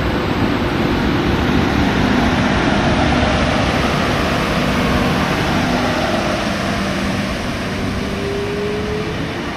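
Electric suburban train running through the station: a loud, steady rumble with a low motor hum, and a motor tone rising slowly in pitch near the end.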